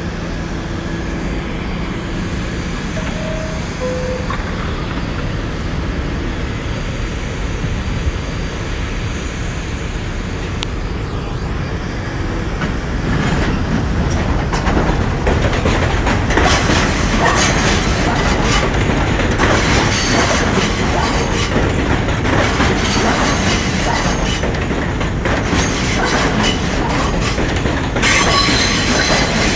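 1987 Westinghouse R68 subway car running along the track, a steady rumble of wheels on rail with clacking, which grows louder and harsher about halfway through, with some wheel squeal.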